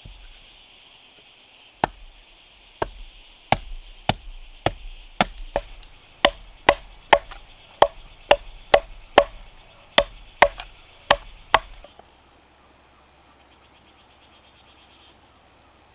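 A hand tool striking wood, a series of sharp chopping blows that speed up to about two a second and stop about twelve seconds in.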